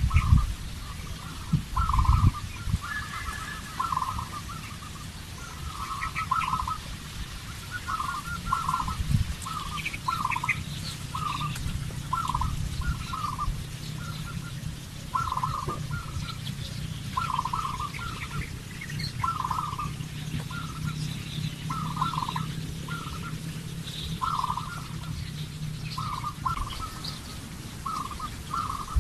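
Short animal calls repeating about once a second, over a steady low rumble.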